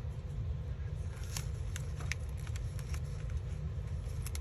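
A few faint light ticks and rustles of paper and craft supplies being handled, over a steady low background rumble.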